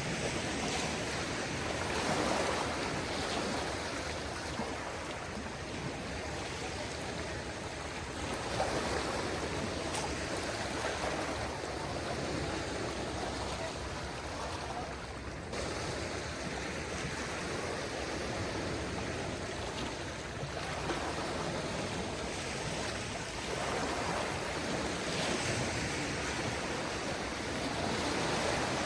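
Calm sea with small waves washing onto the shore: a continuous wash that swells in gentle surges a few times.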